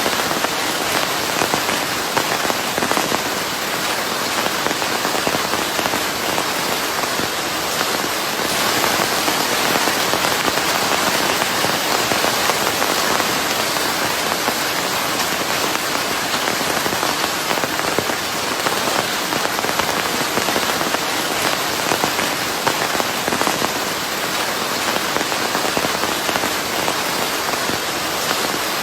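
Steady rain falling on a surface, a dense even patter and hiss with no thunder.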